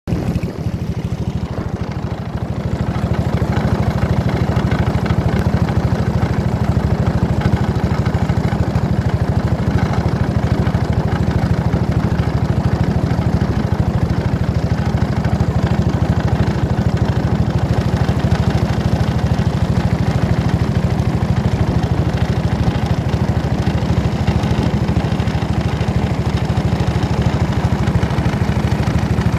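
A small engine running steadily, with a heavy low rumble that gets a little louder about three seconds in.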